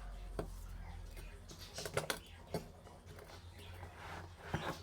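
A few scattered light clicks and knocks of objects being handled, over a low steady hum.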